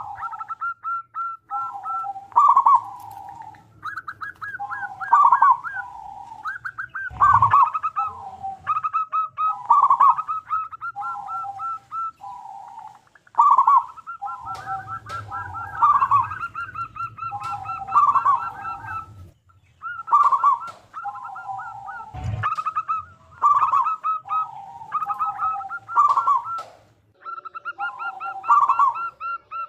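Zebra dove (perkutut) singing loudly, its song repeated about every two seconds: each phrase is a quick run of high staccato notes that drops into lower rolling coos, and phrases sometimes overlap. Two sharp knocks sound, about a third of the way in and again about three quarters in.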